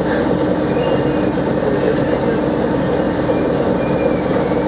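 Train running on the rails: a steady rumble with a low hum and a few faint, brief high wheel squeals.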